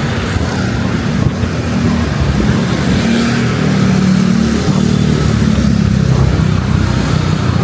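Road traffic: car and motorbike engines running close by, the sound swelling slightly as vehicles pass.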